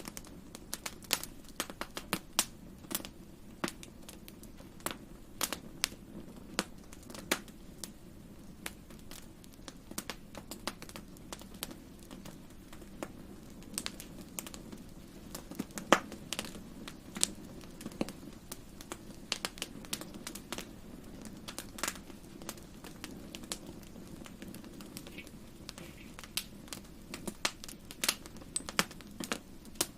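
Wood fire in a fireplace crackling: irregular sharp pops and snaps over a soft low rumble of flames, with one louder pop about sixteen seconds in.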